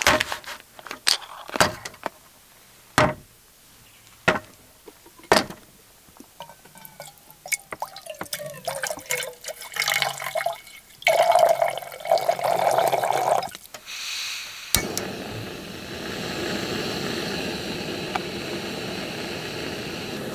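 Knocks and clicks of camp cooking gear being handled, then water poured into a pot, rising in pitch as it fills. About fifteen seconds in comes a sharp click, and a gas camp stove burner starts hissing steadily as the water is heated for coffee.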